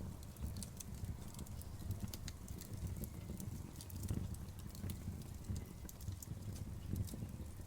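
Outdoor wood fire crackling: irregular sharp pops and snaps scattered over a low, steady rumble of the burning fire.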